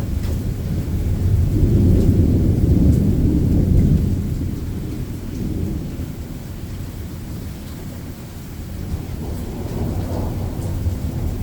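Rolling thunder rumbling deep and long, loudest about two to four seconds in, easing off, then building again near the end, with rain falling throughout.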